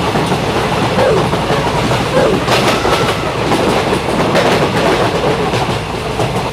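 Train running along the track, a steady rattling clickety-clack of wheels over the rails with a few sharper clicks in the middle.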